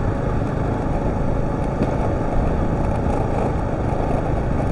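Husqvarna TR650 motorcycle riding over a corrugated dirt road: its single-cylinder engine running steadily under a dense, even rush of wind and road noise.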